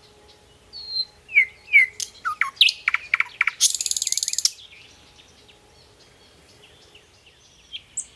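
Songbird calling: a run of quick chirps and down-slurred whistles with a buzzy trill in the middle, then a pause and a few more chirps near the end.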